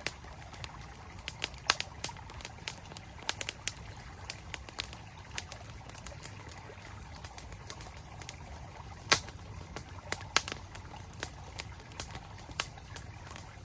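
Campfire crackling with irregular sharp pops, the loudest about nine seconds in, over the steady rush of a flowing stream.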